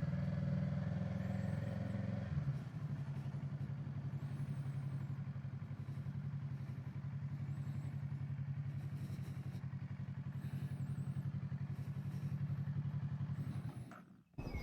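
Kawasaki Z650's parallel-twin engine running, settling about two seconds in to a steady, evenly pulsing idle, then cutting off abruptly near the end.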